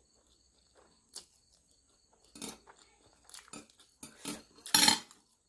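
Tableware clicking and clattering during a meal: a scattered series of short knocks that grows busier, with the loudest, sharpest clatter a little before the end.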